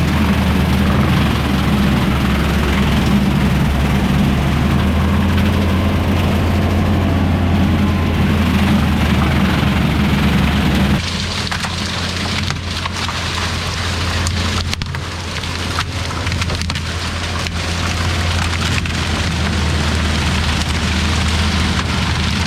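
LS MT573 diesel tractor running steadily under load while a Woods BushBull rotary cutter shreds bamboo, a constant engine drone under a crackling, splintering hiss. About halfway through the sound changes suddenly, getting quieter and less hissy, with sharp snaps and cracks standing out.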